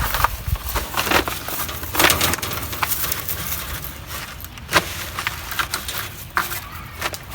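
A run of irregular knocks and cracks, a few sharper than the rest, with no steady rhythm.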